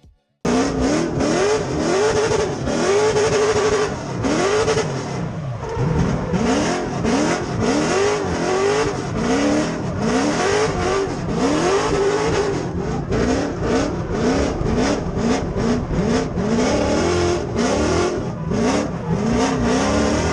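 6.0-litre LS V8 in a 1992 Nissan 240SX drift car revving up and falling back over and over, its sound breaking up in frequent short stutters. This is a weird bogging noise at full throttle: the alternator belt had snapped and the battery was draining, so some coil packs weren't firing right.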